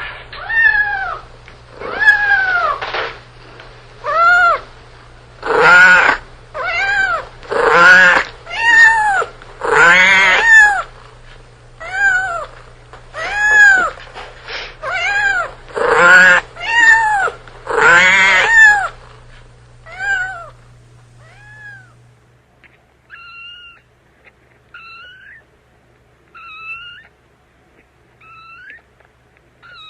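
A cat meowing over and over, about one loud meow a second. About two-thirds of the way through, this gives way to fainter, shorter mews.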